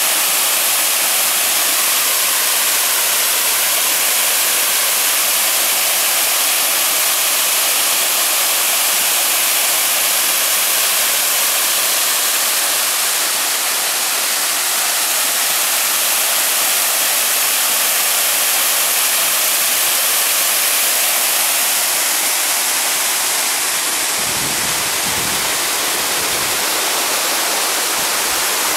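Small waterfall cascade, water falling and rushing steadily with a hissing, high-weighted noise. Some brief low rumbling joins it near the end.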